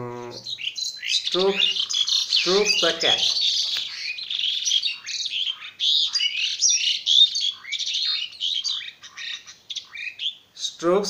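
Birds chirping in a rapid, continuous chatter of many short, high calls, louder than anything else, with a man's voice briefly in the first few seconds.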